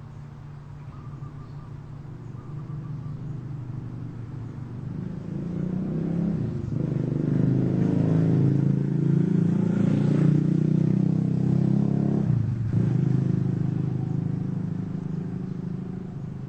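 A large engine passing close by, growing louder to a peak in the middle, with a brief dip about twelve and a half seconds in, then easing off toward the end.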